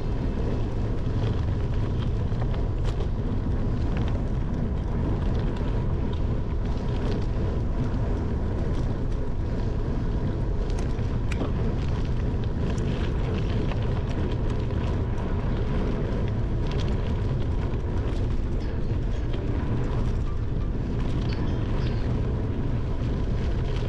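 Bicycle riding on a dirt or gravel trail, heard from a handlebar-mounted camera: a steady low rumble of wind and tyre noise on the microphone, with many small clicks and rattles from the tyres and bike over the rough surface.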